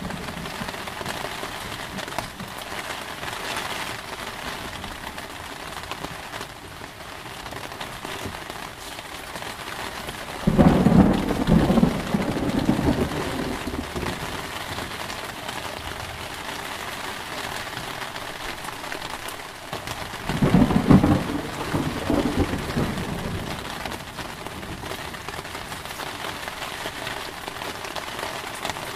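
Steady heavy rain with two claps of thunder, one about ten seconds in and one about twenty seconds in, each breaking suddenly and rumbling away over a few seconds.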